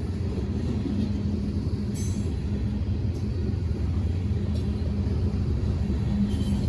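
Train rumbling steadily, a low drone with a constant hum underneath.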